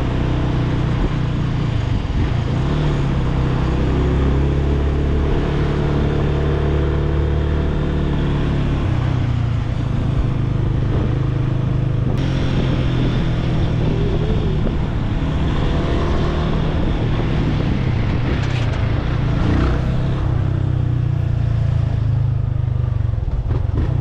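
Yamaha FZ25's 250 cc single-cylinder engine running while riding, with wind and road noise. The engine note steps up and down a few times with throttle and gear changes.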